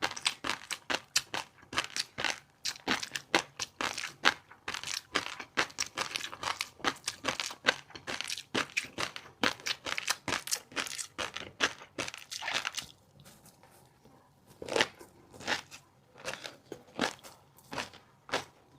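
Close-miked chewing of fish roe and crunchy seafood: rapid, crisp crunches and pops come thick and fast, pause for a couple of seconds after about twelve seconds, then return as slower, separate chews.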